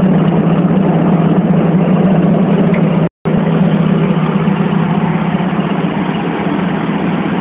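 Metro train running with a steady, loud rumble. The sound cuts out for an instant about three seconds in.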